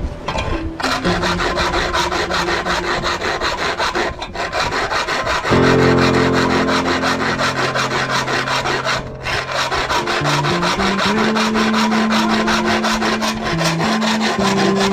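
Quick, even back-and-forth rasping strokes of hand-tool work, breaking off briefly twice, over background music with sustained notes.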